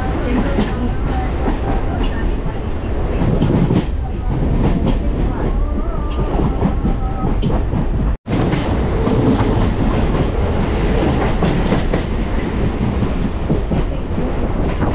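Chennai suburban electric local train running at speed, heard from on board: a steady rumble with the clickety-clack of the wheels over the rail joints. The sound drops out for a split second about eight seconds in.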